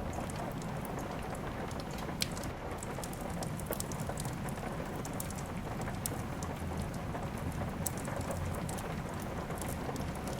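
Steady rain ambience mixed with a crackling fireplace: a constant rushing hiss with frequent sharp pops and crackles scattered through it.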